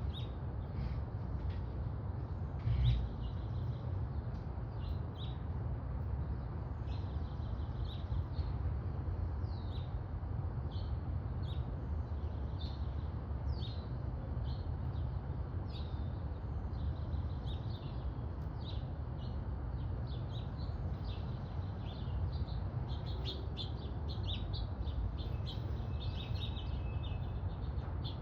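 House finches chirping: many short calls scattered throughout, over a steady low rumble, with one dull low thump about three seconds in.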